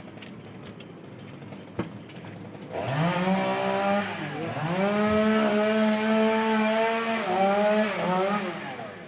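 A small engine revs up about three seconds in. Its pitch dips and climbs again a little later, then it runs steady for a few seconds before easing down near the end.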